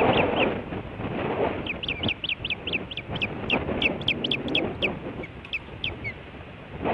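Osprey calling: a quick series of short, falling, whistled chirps, about five a second, starting just under two seconds in and stopping near the end. Wind rumbles on the microphone throughout.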